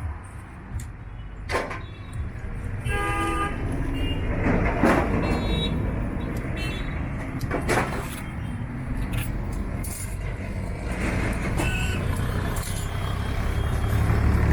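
Steady low hum and rumble of machinery or traffic, with a few sharp clicks and a brief horn-like tone about three seconds in.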